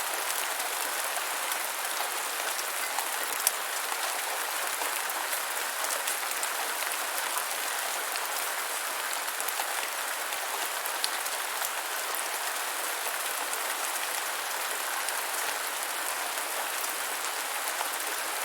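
Steady rain falling, an even hiss with scattered small droplet ticks, one sharper tick about three and a half seconds in.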